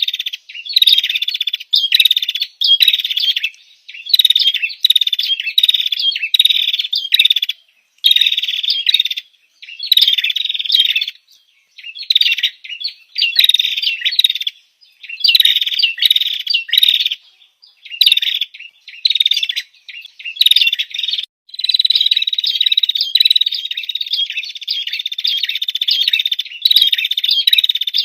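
Female prinia (prenjak) calling: fast, dense chirping trills in bursts of about a second, repeated with short pauses, then an unbroken run of several seconds near the end. This is the female's call used as a lure to draw in males.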